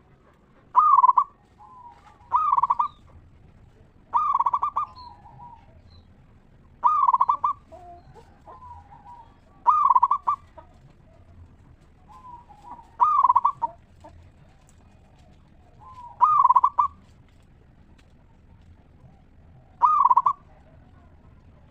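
Zebra dove (local perkutut) cooing: eight loud, ringing phrases about every two to four seconds, with softer, lower cooing notes between them.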